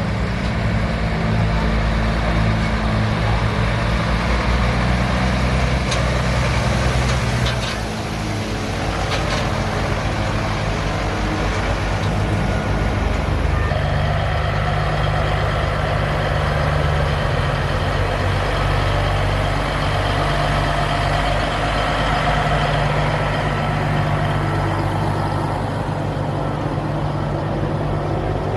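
Antique truck engine running steadily. Its note changes about 8 seconds in and again around 14 seconds, as with a change of throttle or gear.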